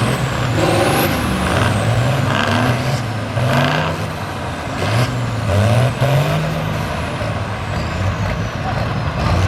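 A modified pulling tractor's turbocharged diesel lorry engine revving hard under load, its pitch rising and falling several times. A high turbo whistle sweeps up and down near the start and then falls away.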